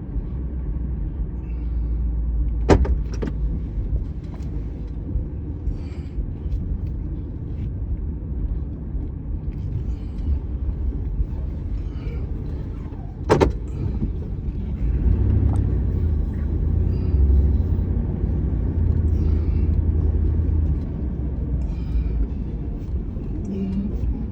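Car driving slowly, with a steady low engine and road rumble that grows a little louder about fifteen seconds in. There are a few sharp knocks about three seconds in and again around thirteen seconds in.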